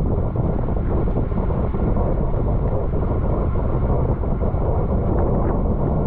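Wind rushing over the microphone of a camera riding on a racing bicycle at speed: a steady, loud, low rumble.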